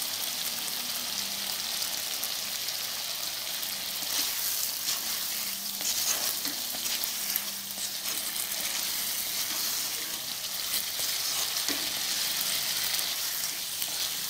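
Potatoes and spice paste sizzling steadily in hot oil in a kadai as the masala is fried down, with a spatula stirring and scraping through it now and then.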